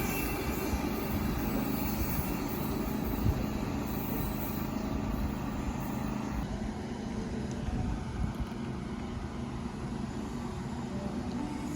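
Low rumble of a Sydney electric train moving away, with a steady hum, slowly fading.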